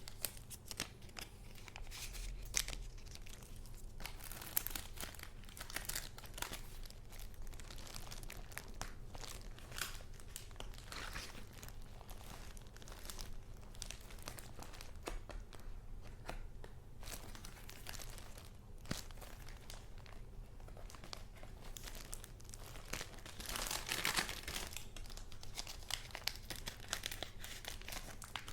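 Paper rustling and crinkling as handmade junk-journal pages and paper goods are handled, with frequent sharp clicks and a louder spell of crinkling near the end.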